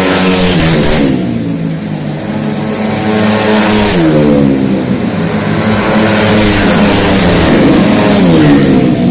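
130cc automatic scooter engine revved hard several times, its pitch climbing and then dropping back sharply, about four times.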